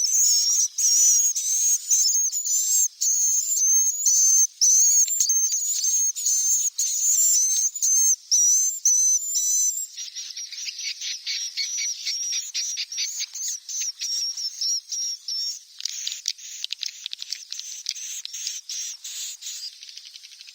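Swiftlet chicks calling: shrill, wavering high-pitched chirps. About halfway through it turns into quieter, rapid chittering.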